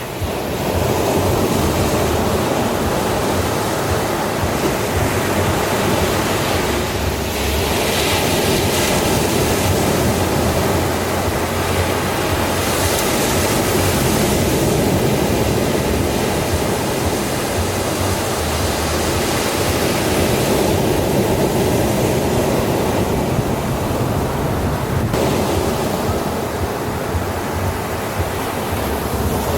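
Ocean waves washing onto a shore: a steady rush of surf, with a couple of brighter surges as waves break.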